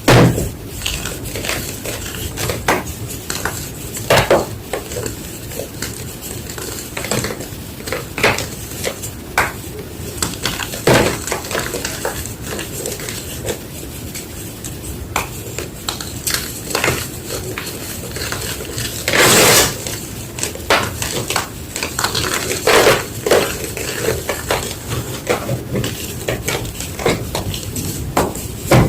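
White gym chalk crunching and crumbling in irregular sharp cracks, with a longer, louder crumbling stretch about 19 seconds in.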